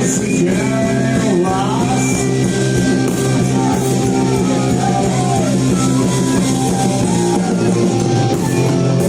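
A rock band playing live: guitar chords held under a melodic line that bends in pitch, with drums.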